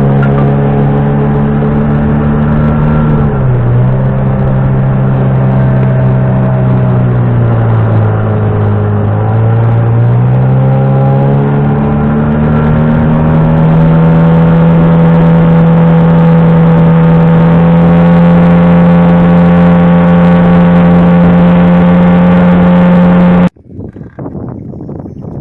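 Boat outboard motor running under way, loud and steady; its speed drops briefly, dips again, then rises and holds even. It cuts off abruptly near the end, leaving wind noise.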